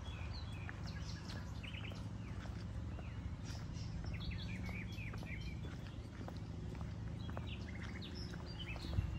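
Small birds chirping, with short high twittering notes and a few quick trills, over a low steady rumble. One brief thump comes near the end.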